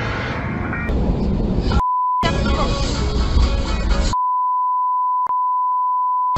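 Censor bleep: a steady 1 kHz beep tone, heard briefly about two seconds in and again for over two seconds from about four seconds in, replacing the clip's sound. Before and between the bleeps, the compilation's noisy clip audio with music plays.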